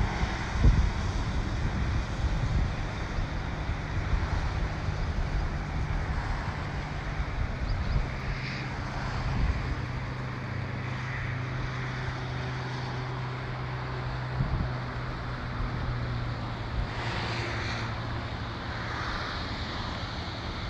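Steady low engine hum under a rushing noise, with a few brief bumps.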